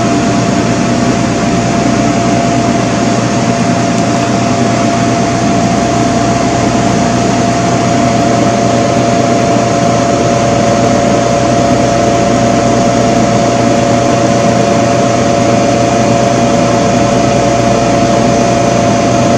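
Steady, loud hiss with a constant hum underneath, unchanging throughout, with no knocks or other events.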